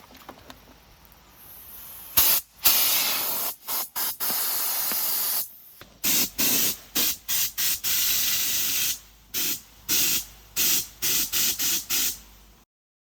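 A sharp pressurised hiss in bursts: one long blast of about three seconds, then a dozen or so short spurts in quick succession, ending abruptly.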